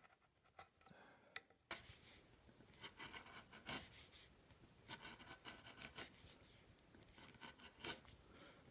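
Faint, irregular scraping strokes of a hand carving tool cutting into wood, starting about two seconds in, with a few strokes louder than the rest.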